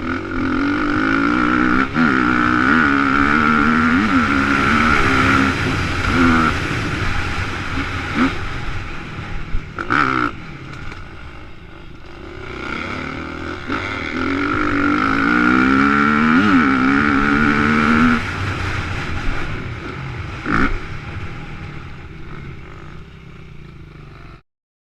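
Motocross bike engine revving hard through the gears, heard from a helmet-mounted GoPro, in two long pulls whose pitch climbs and drops back at each shift. A few sharp thumps break in, and the sound cuts off suddenly near the end.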